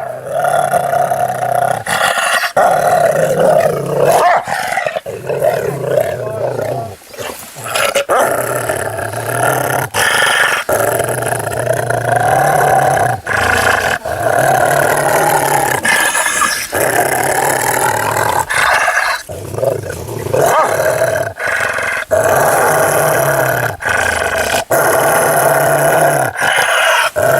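Dog growling almost without a break, loud and sustained, with a few short pauses.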